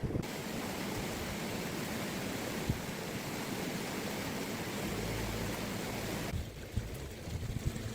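A steady, even rushing hiss that cuts off suddenly about six seconds in.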